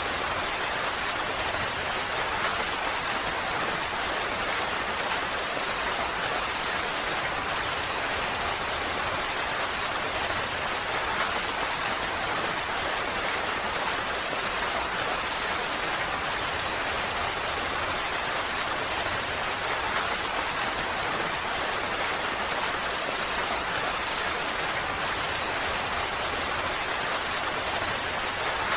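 Steady rain falling, a dense even hiss of drops with occasional faint individual patters.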